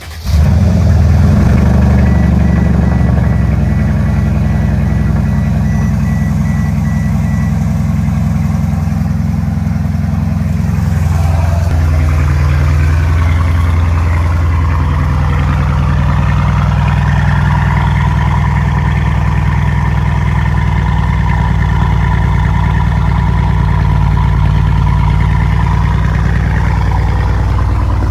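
Mercedes-Benz S550's twin-turbo V8 with muffler and resonator delete firing up at the very start on a cold start, then running loud at a raised cold-start idle. About eleven seconds in the idle settles lower and stays steady.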